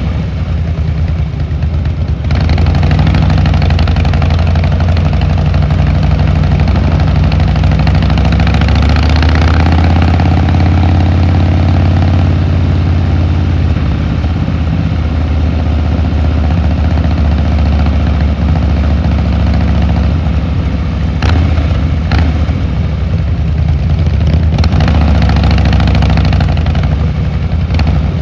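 Harley-Davidson Fat Boy Lo's V-twin engine and exhaust running while riding, quieter for the first two seconds, then opening up about two seconds in and holding a steady loud note. The pitch rises slowly in the middle as the bike gathers speed, and a few short knocks come near the end.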